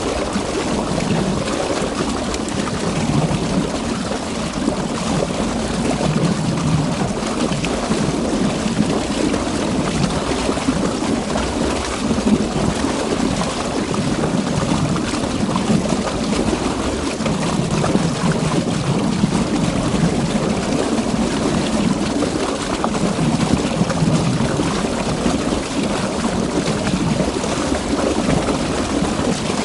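River water flowing steadily, a continuous rushing with slow swells in level.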